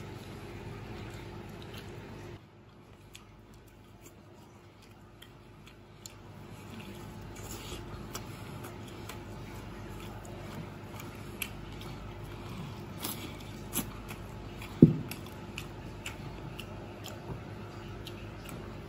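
Close-up eating sounds: a person chewing and biting food, with scattered light clicks of chopsticks against a porcelain bowl. One short low thump about fifteen seconds in.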